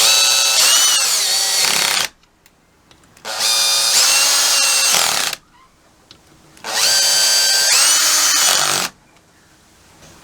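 Handheld electric power tool run in three bursts of about two seconds each, its motor whining at a steady pitch and dropping in pitch briefly as each burst is released.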